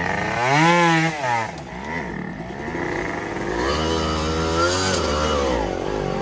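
Two-stroke dirt bike engine revving: a quick rev up and back down about half a second in, then a longer rev held high for about two seconds near the middle before dropping.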